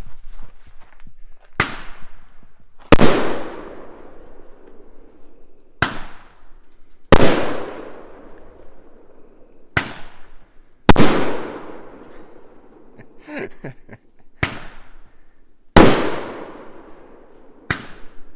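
Five-ball Roman candle firing: five sharp launch pops about four seconds apart. Each pop is followed a second or so later by a much louder bang that fades out slowly as the ball bursts in the air as a salute; the fifth bang comes just after the end.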